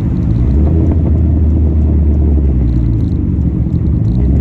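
Big-turbo Dodge SRT-4's turbocharged four-cylinder engine and exhaust droning steadily under way, heard from inside the car, with a brief dip near the end.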